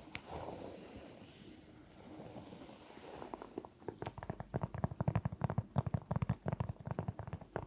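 Soft scratching and rubbing, then about three seconds in a fast run of ASMR tapping begins: quick, crisp taps, many a second.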